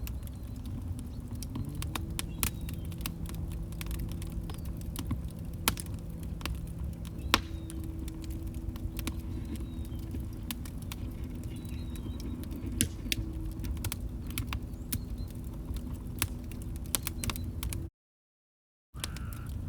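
Log fire crackling: sharp, irregular pops and snaps over a steady low rumble. The sound cuts out to complete silence for about a second near the end.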